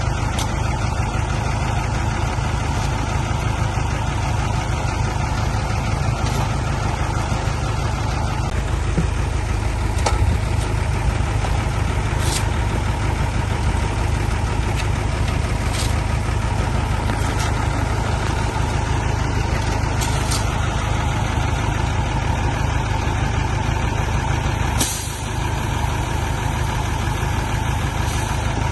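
Heavy diesel engine running steadily with a deep rumble, with a few short hisses over it.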